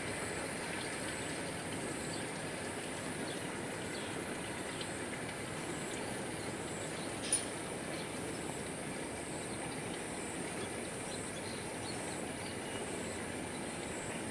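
Steady outdoor ambience: an even hiss with a constant high-pitched hum above it, and a single sharp click about halfway through.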